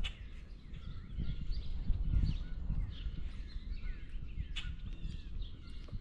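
Small birds chirping repeatedly, with a few sharp clicks and irregular soft low thumps and rumble close to the microphone.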